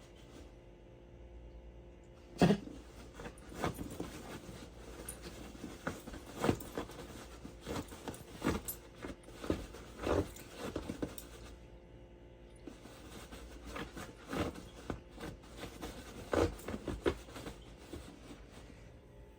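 Irregular taps, knocks and scuffles of dogs playing with a toy, one sharp knock about two and a half seconds in being the loudest.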